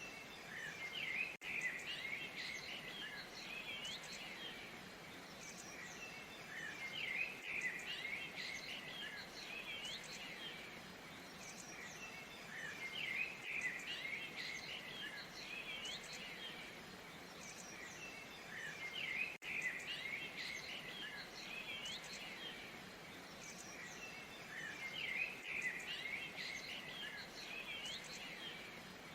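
Steady rush of a waterfall with many small birds chirping and twittering over it; the birdsong swells and fades about every six seconds.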